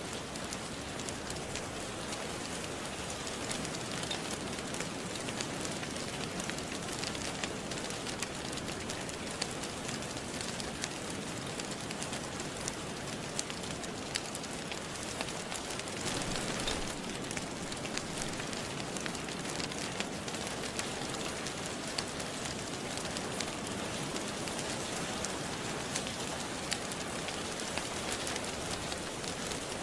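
Steady rain falling, with a log fire crackling in small sharp pops.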